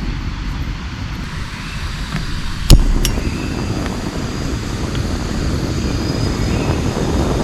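Steady heavy rain, with a sharp knock about three seconds in and a fainter one just after; the rain noise grows fuller afterwards.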